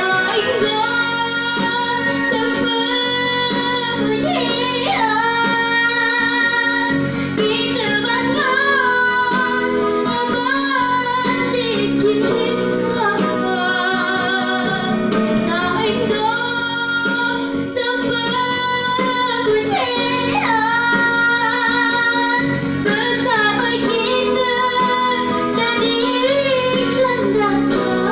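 A young girl singing a song over instrumental backing, her voice gliding between notes with wavering held tones.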